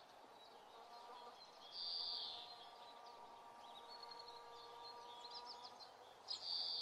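Quiet background with two short high bird calls, one about two seconds in and one near the end, and a few faint chirps between them.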